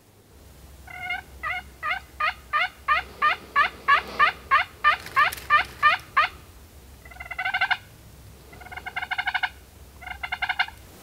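Turkey yelping: a long, evenly spaced run of about fifteen yelps, about three a second, growing louder, followed by three short bursts of rapid gobble-like notes.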